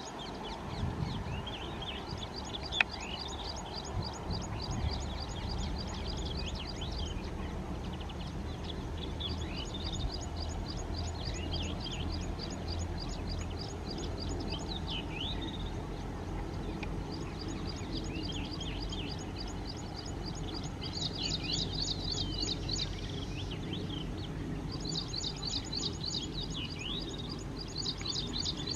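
Birds chirping: runs of quick, evenly repeated high notes and short falling calls, over a low steady hum.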